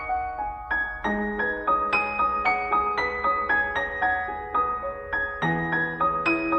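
Piano music: a steady run of single notes, several a second, over held low notes that change about a second in and again near the end.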